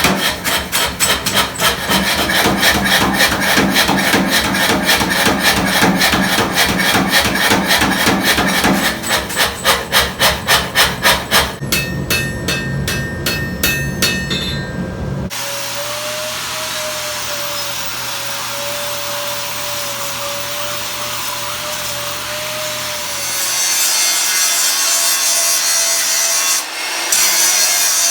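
Mechanical power hammer striking hot steel in a triangular die, a fast, steady run of blows that thins out after about ten seconds. About halfway through it cuts to a grinder working the steel: a steady hiss with a wavering hum that gets louder and brighter near the end.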